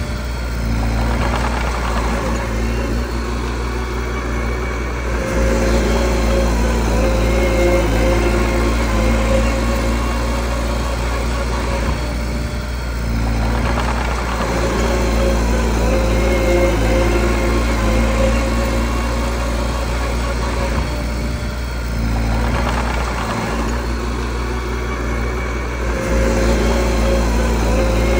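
Diesel engine of a small bulldozer running steadily, its note and loudness shifting every several seconds as the machine works.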